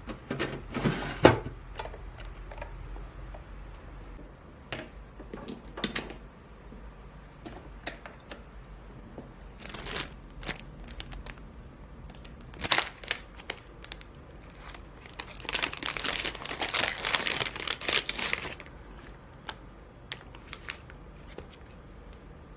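Objects being handled at close range: scattered clicks and taps, with a few seconds of crinkling and rustling about two-thirds of the way through.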